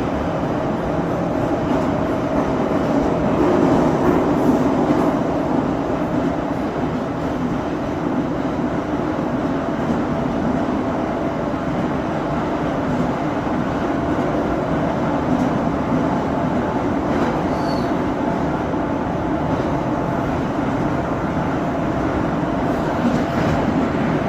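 Moscow Metro 81-717.5M/81-714.5M "Nomernoy" train running through a tunnel between stations, heard from aboard: a steady rumble of wheels and running gear with a steady hum.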